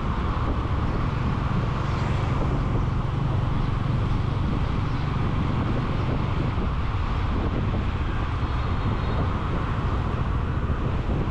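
Steady wind and road noise from a moving motorcycle, with the bike's engine and surrounding traffic running underneath, heard through an action camera's microphone.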